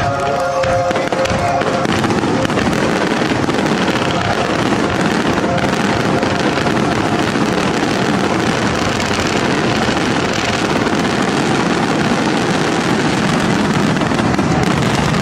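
Dense, continuous crackling of aerial fireworks in a show finale. Music tones fade out in the first second or two.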